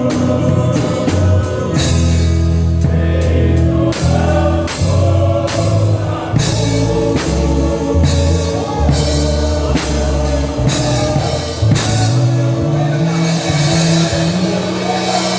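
Gospel song sung by a group of voices over a band, with sustained bass notes and a steady drum beat.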